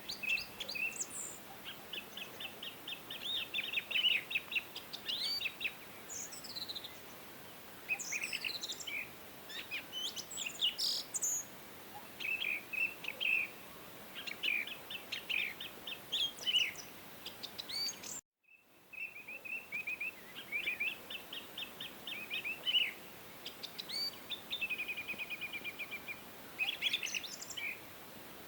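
Songbirds singing: repeated phrases of rapid chirping trills and quick sweeping whistles, with short gaps between phrases over a soft steady hiss. About two-thirds of the way through, the sound cuts out for a split second and resumes, like a loop join.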